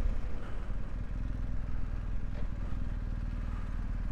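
Motorcycle engine running steadily, a low even engine note.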